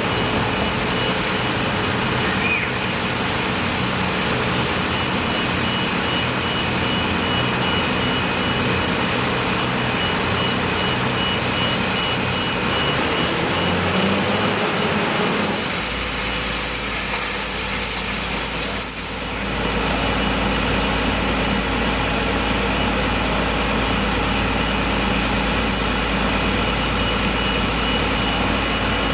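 A heavy engine running steadily, with a dense, continuous mechanical drone; its low pitch shifts about halfway through and dips briefly a few seconds later.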